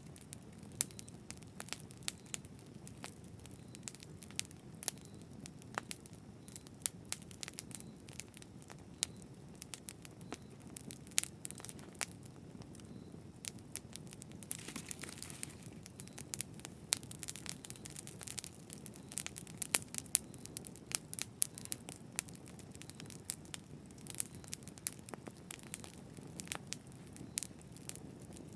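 Campfire crackling: irregular sharp pops and snaps of burning wood over a low, steady rumble of flames, with a brief hiss about halfway through.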